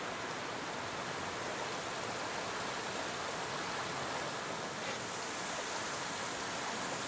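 A steady, even rushing hiss with no change through the take, with one faint tick about five seconds in.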